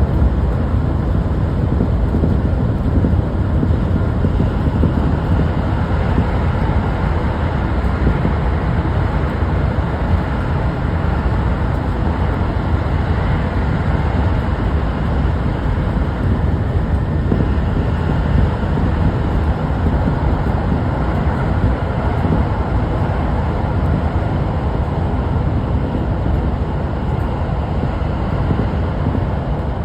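Subway train running at speed: a steady low rumble of wheels on rails.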